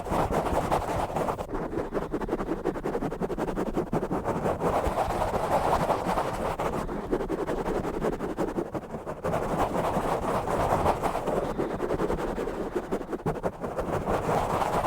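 Fast, rough scratching and rubbing right on a bare microphone, a dense continuous rasp of rapid strokes that swells and eases every few seconds.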